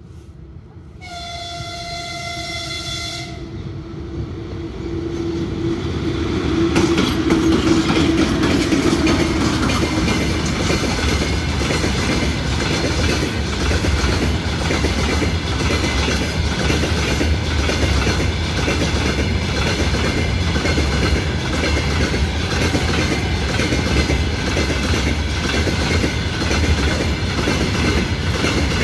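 A train on an electrified line sounds a short, high horn blast about a second in, then a lower horn tone swells as it nears. It then passes close by with a loud, steady rumble and wheels clattering rhythmically over the rail joints.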